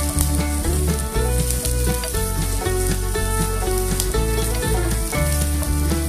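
Garlic, shallots, chilies and lemongrass sizzling in hot oil in a nonstick pan, with the light scrape of a silicone spatula stirring them. Background music with a repeating bass line plays over the frying.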